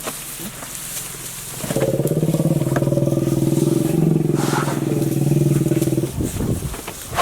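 Safari jeep's engine held at raised revs for about four seconds, a steady low drone that starts about two seconds in and drops away near the end.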